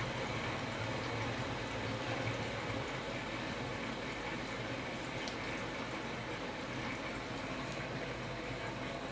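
LG inverter direct-drive washing machine on a rinse: a steady rush of water in the drum, with a low hum that fades out about three seconds in.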